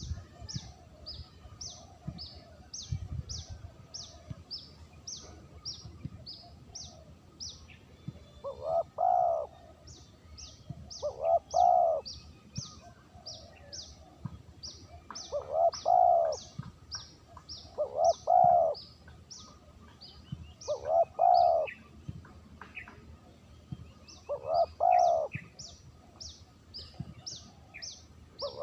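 Spotted dove (terkukur) cooing, played as a trapper's lure call: six short phrases, each a few quick notes, repeated every two to four seconds. A small bird's high, rapid chirps run beneath, with pauses.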